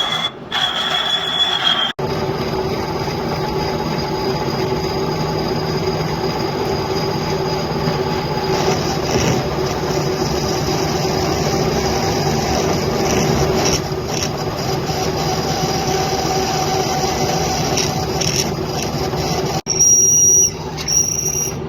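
Metal lathe turning a hydraulic jack piston: the machine runs steadily while the cutting tool squeals with a high, steady tone for the first two seconds and again near the end.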